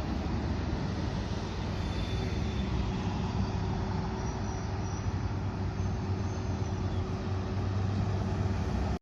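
Fire engine's diesel engine running with a steady low rumble.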